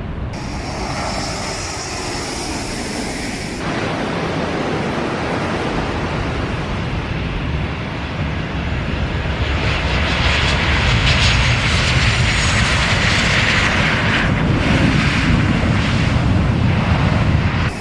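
Jet airliner's engines passing by, a steady rushing noise that grows louder about halfway through.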